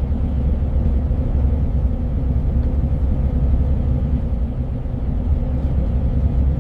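Steady low rumble of a big truck's engine.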